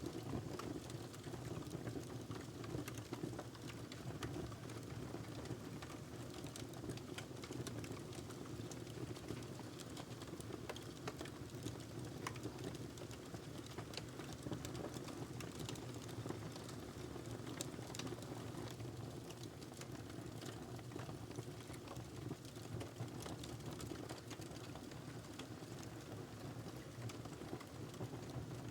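Wood fire burning in a fireplace: a steady low rumble and hiss with frequent small, irregular crackles and pops.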